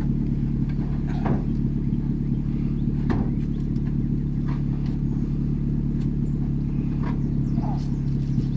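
Mazda Protege's four-cylinder engine idling steadily, with a few light knocks and clicks over it.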